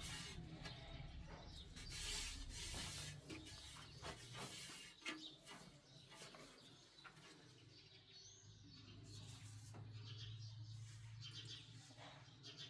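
Faint bird chirps over quiet background noise, with scattered small clicks and knocks.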